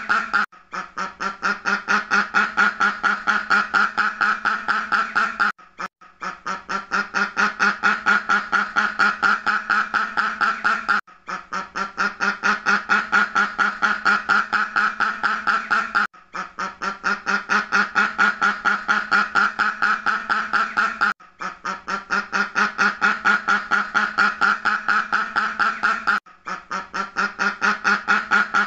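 A duck quacking in fast runs of about five quacks a second. Each run starts softer and grows loud, and a short break comes about every five seconds as the same run repeats in a loop.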